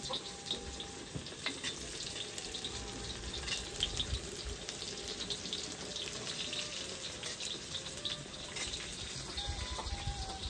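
Shallots frying in hot oil in a steel wok, sizzling steadily, with a metal spatula scraping and tapping against the wok now and then as they are stirred.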